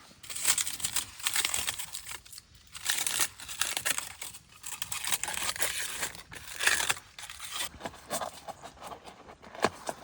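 Crinkling and rustling of crinkly material being handled, coming and going in uneven spells with a few sharper crackles.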